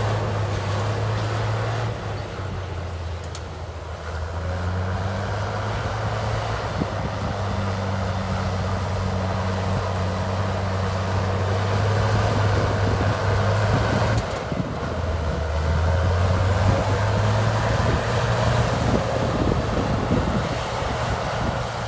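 Diesel engine of heavy earthmoving equipment running under load, its low note dropping and rising a few times, around two seconds in and again near the middle, as the throttle and load change.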